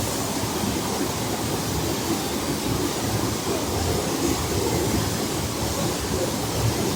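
Floodwater of a flash flood rushing down a wadi: a steady, even rush of water, at a point where the torrent is rising.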